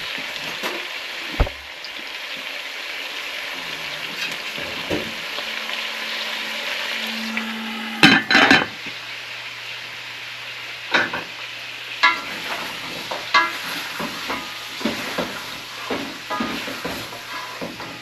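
Marinated pig feet frying in curried oil in a pot, sizzling steadily while they take on the curry colour. About eight seconds in come a few loud clatters, then repeated knocks of a utensil against the pot as the pieces are stirred and turned.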